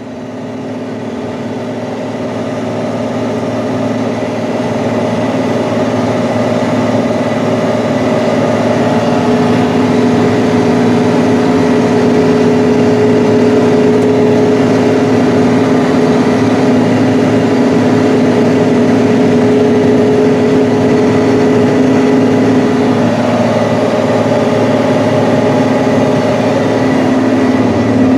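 Large diesel engine of harvest machinery running steadily under load, fading up over the first few seconds; a steady higher tone sits over the engine drone through the middle and stops about two-thirds of the way through.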